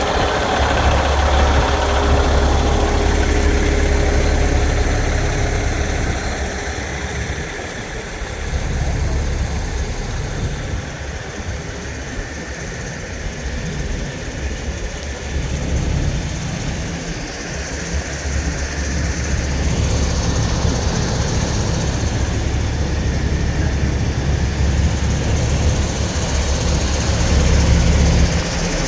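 Heavy diesel semi-truck engines running with a deep low rumble. The rumble drops away for a while in the middle and comes back strong.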